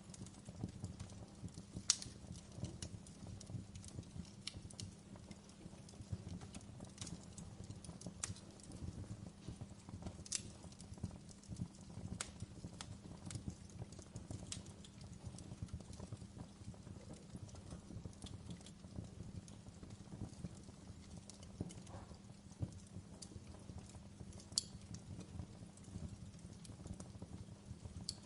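Fire crackling: irregular sharp pops and snaps over a steady low rumble, with two louder pops, one about two seconds in and one near the end.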